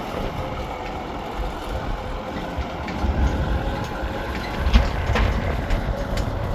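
Wind rumbling on the microphone in uneven gusts, with a few scattered small clicks.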